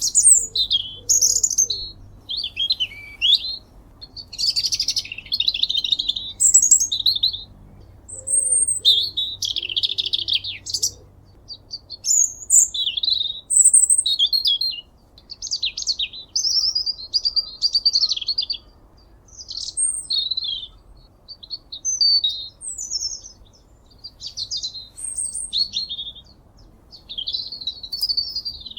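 A small brown songbird singing a long, varied, high-pitched song, delivered as a run of phrases each a second or two long with short pauses between them.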